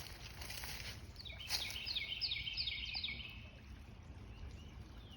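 A songbird singing a quick series of short, repeated high notes for about two seconds, starting about a second in, over outdoor background noise. A brief broad rustle comes in the first second.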